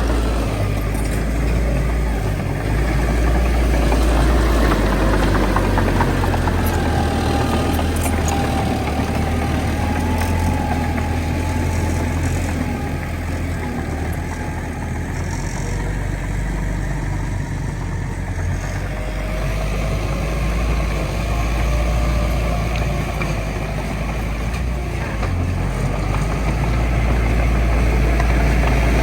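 Bulldozer diesel engine running under work with a deep, continuous rumble that swells and eases slightly, and a faint whine wavering in and out above it.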